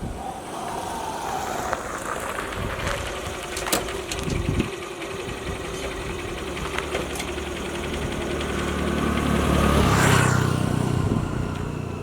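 A motor vehicle's engine running, growing steadily louder to a peak about ten seconds in and then easing off, like a vehicle passing close by.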